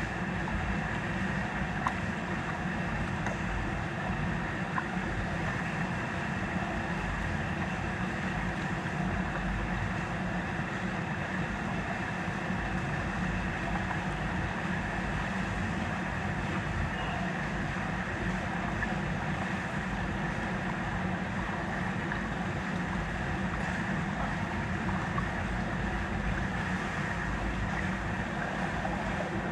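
Steady rush of churning water that holds unchanged throughout, with a low rumble under it.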